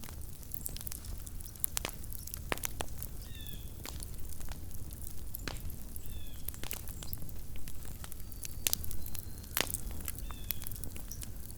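Small wood campfire burning, with frequent sharp crackles and pops over a low steady background. A faint, short high-pitched call sounds three times, about three seconds apart.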